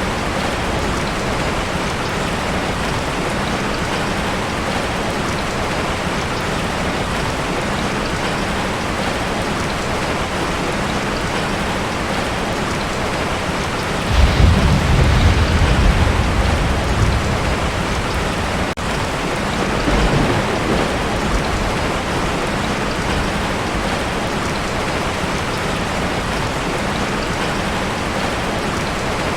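Heavy rain drumming steadily on a metal roof, with a deep roll of thunder about halfway through and a weaker rumble a few seconds later.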